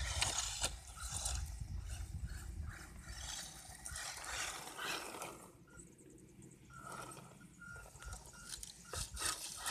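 ECX Torment RC truck's electric motor running as it is driven over rough ground, with a low rumble and scattered clicks and knocks throughout.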